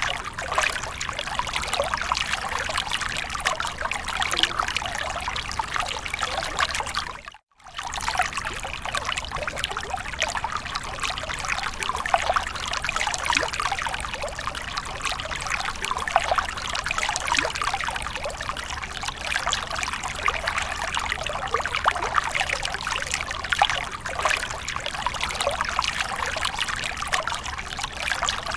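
Water splashing and trickling continuously, a dense, irregular patter of small splashes. It cuts out briefly to silence about seven seconds in, then resumes.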